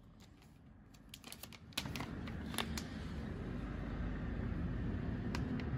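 A quick run of light clicks and taps, then a steady rushing background noise that comes up about two seconds in and holds.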